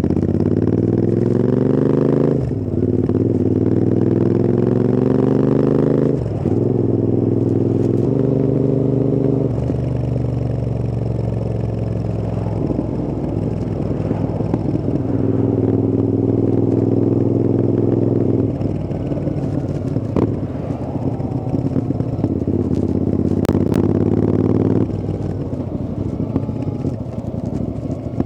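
Royal Enfield Interceptor 650's parallel-twin engine and exhausts under way: it accelerates with rising pitch through quick gear changes about two and a half and six seconds in, then holds fairly steady speed, and the throttle eases off a few seconds before the end.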